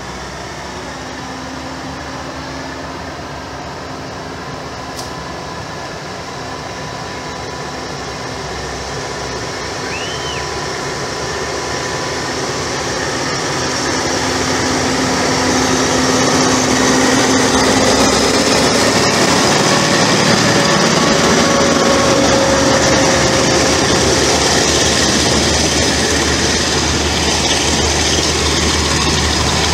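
Diesel-electric locomotive hauling a passenger train approaches, its engine growing steadily louder over about fifteen seconds. Then the passenger coaches roll past close by on the rails.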